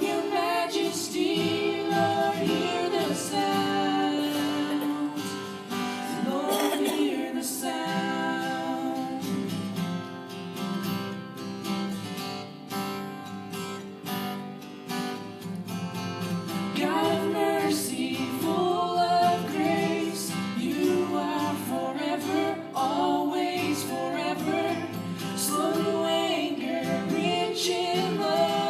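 Two children singing a worship song together over instrumental accompaniment.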